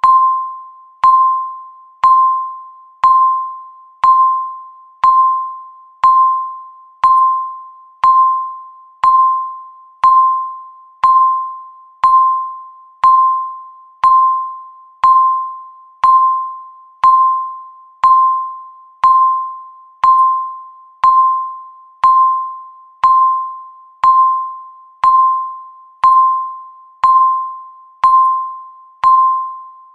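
Electronic countdown-timer beep: a short pitched tone, once a second, each note sharp at the onset and fading away before the next.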